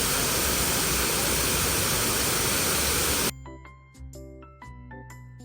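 Loud, steady rush of falling water, like a waterfall, with a faint high whine over it. It cuts off abruptly about three seconds in, giving way to light background music of chiming notes.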